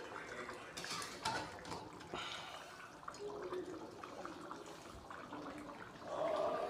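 Beef frying in oil and juices in a steel karahi on a high flame, bubbling and sizzling, while a metal spatula stirs it with short scrapes and knocks against the pan. It grows louder near the end.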